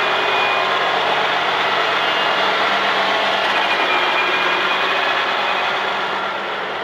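A 2009 Challenger MT955B four-wheel-drive tractor's diesel engine running steadily, easing off slightly near the end.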